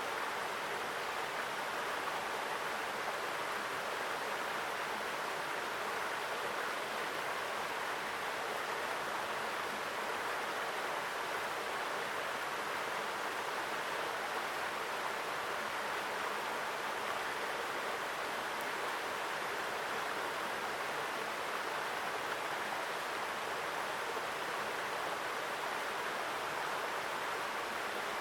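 Mountain stream rushing over rocks, a steady strong flow of water heard up close.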